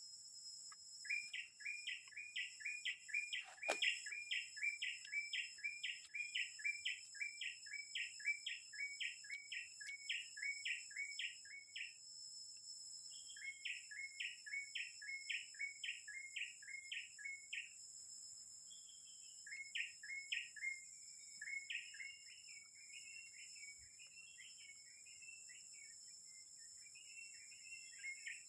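A forest bird calling: a fast series of identical sweeping chirps, about two a second, broken by a short pause and repeated, then turning into a looser, more varied twittering. A steady high-pitched whine sits underneath, and a single sharp click comes about four seconds in.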